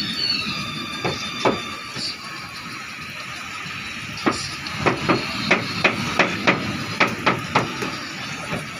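Repeated sharp knocks: a few single ones about a second in, then from about four seconds in a quick run at two or three a second, over a steady background of outdoor noise.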